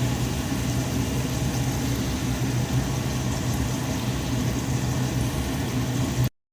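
A steady mechanical hum over a noisy background, cutting off suddenly near the end.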